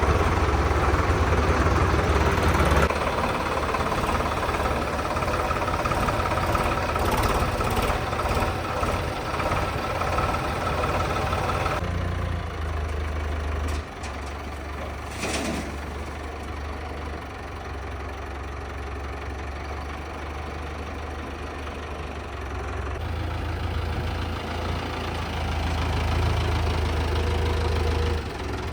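Diesel tractor engine running steadily, its sound changing abruptly a few times, with a brief whoosh about halfway through.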